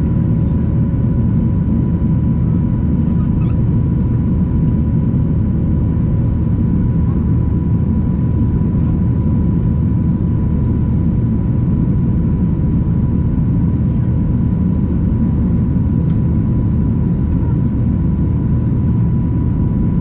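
Cabin noise of a Boeing 737-800 in its climb with the flaps up: a steady low rumble from its CFM56-7B engines and the airflow, with a faint steady whine on top.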